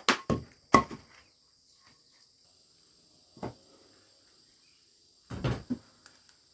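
Several irregular sharp knocks and thuds, three in the first second, one about three and a half seconds in and a cluster near the end, over a steady high-pitched insect drone.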